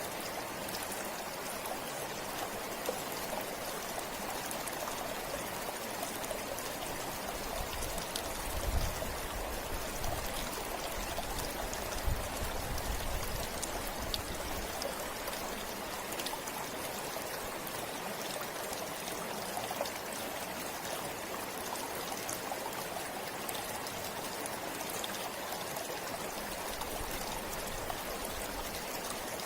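River water flowing steadily, a constant rushing with small scattered splashes. A few low thumps come between about eight and fourteen seconds in.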